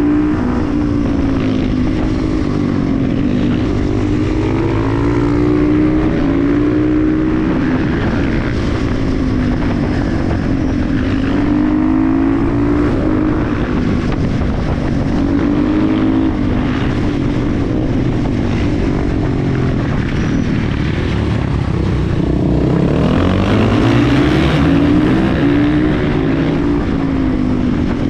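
KTM 350 EXC-F single-cylinder four-stroke engine under way, its note rising and falling continuously with throttle and gear changes. About three-quarters of the way through it climbs in one long rev.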